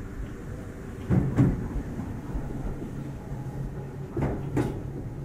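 Meitetsu 6800 series electric train running, with a steady low hum and two double clacks about three seconds apart as the wheels cross rail joints.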